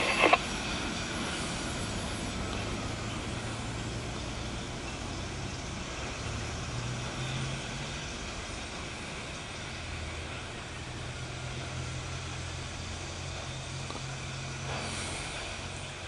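Steady low rumble of an empty autorack freight train's cars rolling away. Road-vehicle engines are running as a pickup truck and a car drive across the grade crossing behind it, their hum shifting in pitch about halfway through.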